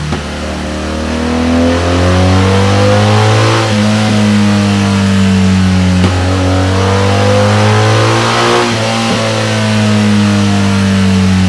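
BMW R1200GS boxer twin running on a dyno through a Delkevic tri-oval stainless steel exhaust, held at fairly steady revs. The exhaust note is loud and steady, and its upper tones slowly rise and fall.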